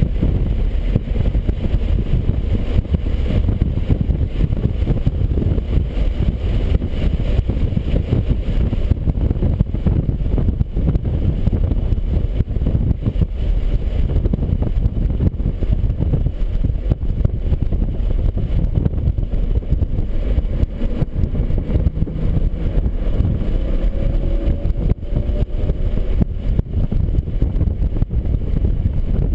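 BMW 135i's turbocharged straight-six running hard, heard from inside the car under a heavy, steady low rumble of wind and road noise; a faint rising engine note comes through near the end as the car accelerates.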